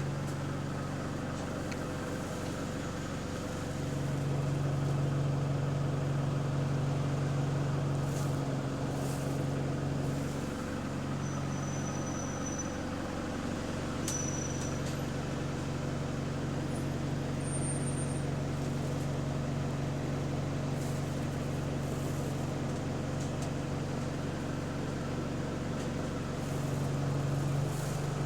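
Bus engine running steadily while the bus drives, a low hum that swells and eases with the throttle, with background noise from the air conditioning. Two short high beeps sound about 11 and 14 seconds in.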